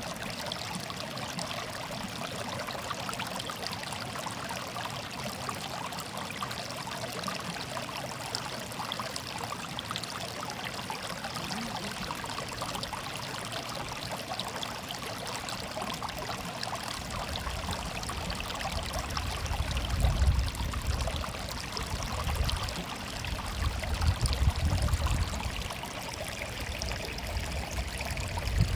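Running water murmuring and trickling steadily. From a little past halfway, bursts of low rumble come and go over it and are the loudest sounds.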